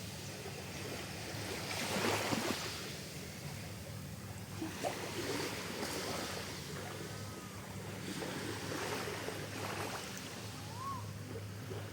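Sea waves washing in and drawing back, swelling every few seconds over a steady low hum. Two short chirps come near the middle and again near the end.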